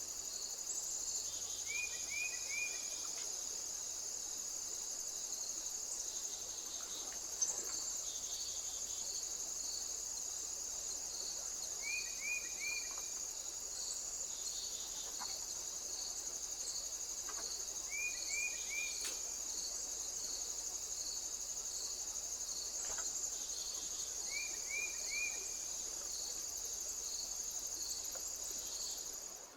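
Insects, crickets or similar, shrilling steadily, with a rhythmic pulsing chirp beneath the continuous high drone. A short call of three quick falling notes repeats four times, several seconds apart.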